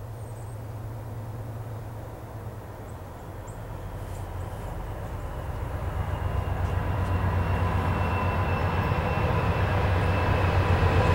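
Freight train approaching, led by Norfolk Southern GE C40-9W diesel locomotives: a steady low engine drone growing steadily louder, with thin steady higher tones coming in about halfway through.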